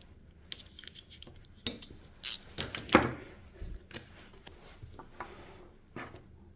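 Irregular clicks and clinks of small metal parts and hand tools being handled on a workbench, the loudest about two and three seconds in.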